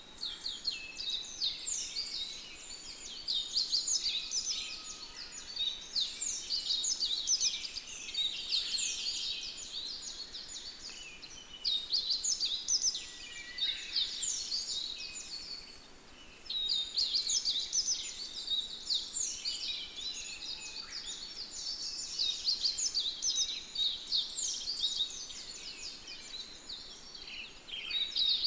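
A dense chorus of many small birds chirping and singing at once: short, high, overlapping calls that swell and ease off every few seconds.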